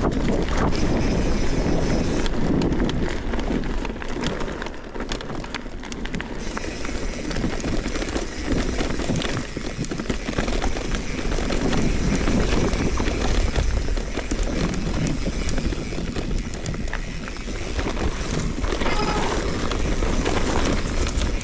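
Mountain bike riding over a rough dirt and stone trail: a continuous rumble of tyres on the ground with many small rattles and clicks from the bike.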